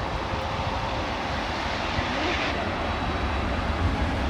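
Jet engine noise from a Thai Airways Airbus A380's Rolls-Royce Trent 900 turbofans at takeoff: a steady rush with a low rumble that grows stronger near the end.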